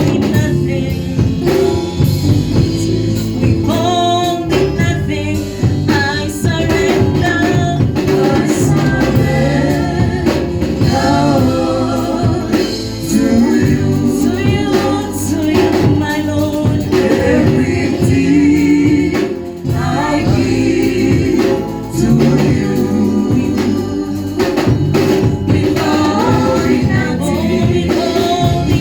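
Gospel music: group singing over a band with drums, loud and steady throughout.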